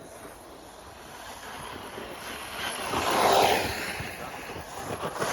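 Electric 6S RC truggy running on a dirt track, its motor and tyres rising to a loud rush as it passes close about three seconds in, and again near the end.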